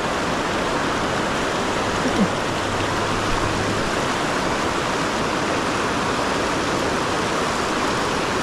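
River water rushing steadily, a constant noise of fast current.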